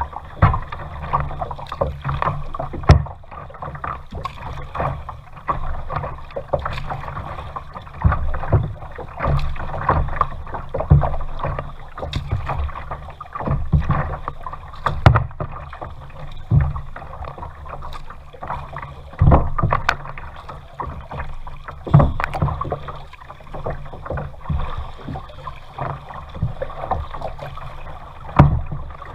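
Kayak being paddled: water splashes and sloshes against the hull in a rough rhythm, about one surge every second or so, with repeated knocks and splashes of the paddle strokes.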